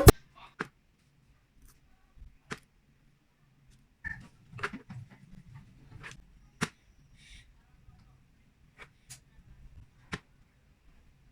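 Scattered light clicks and taps at irregular intervals, typical of kitchen utensils being handled during food preparation, over a faint low hum.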